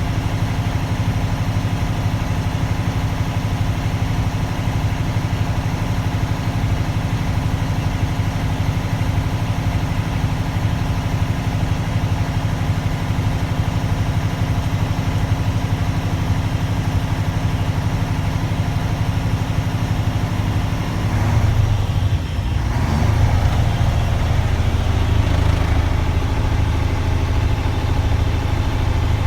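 Diesel truck engine running steadily at a raised speed of about 1500 RPM while the air compressor builds brake air pressure toward governor cut-out. About three-quarters of the way through, the engine note changes briefly, then settles heavier and lower.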